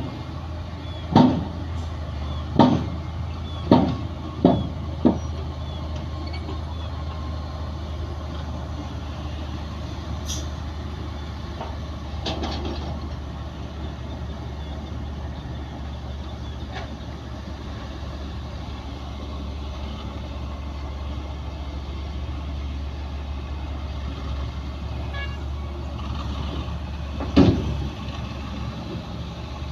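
Heavy diesel earthmoving machinery running steadily with a low drone. Five loud knocks come in quick succession over the first five seconds, and one more comes near the end.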